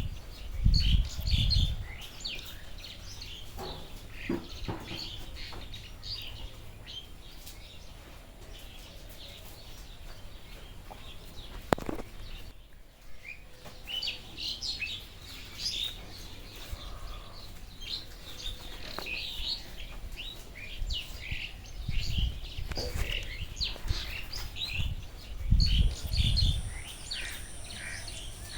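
Many small birds chirping and twittering in a dense, overlapping chorus, with a few low rumbling surges about a second in and again near the end, and a single sharp click midway.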